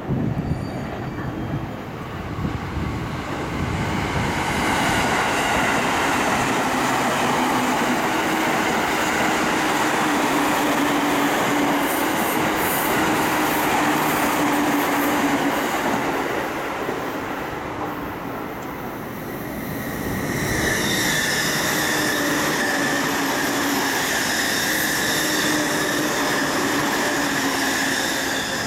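Long orange-and-green-striped electric commuter trains passing through at speed: steady running noise of wheels on rail with some joint clatter, and a high, steady wheel squeal on the curve. The noise dips for a moment about two-thirds through, then rises again as the next train passes with the squeal at its strongest.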